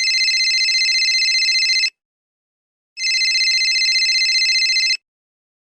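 Telephone ringing: two rings of about two seconds each, a second apart, each a rapid high trill that stops abruptly.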